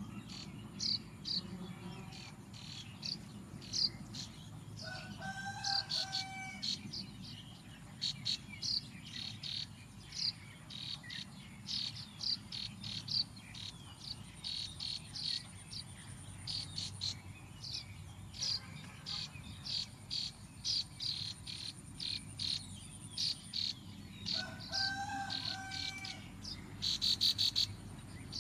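Small birds chirping: a steady run of short, high chirps. Twice a held call on a steady tone stands out, and a loud, fast buzzy rattle comes near the end.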